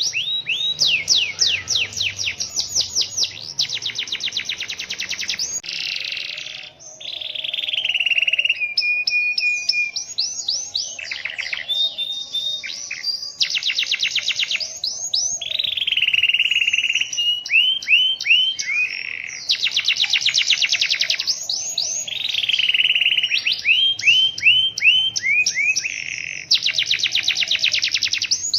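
Domestic canary singing a long, continuous song of fast trills and rolls: runs of rapidly repeated high notes, many sweeping down in pitch, with only a brief pause about six seconds in.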